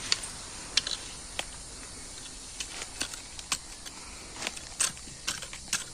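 Irregular sharp clicks and crackles of twigs and forest leaf litter being handled, over a faint steady hiss.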